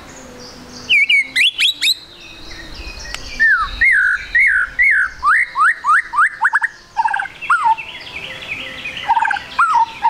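White-rumped shama (murai batu) singing in full song: loud, varied whistled phrases and quick trills. In the middle comes a run of about ten repeated sweeping whistles, roughly three a second.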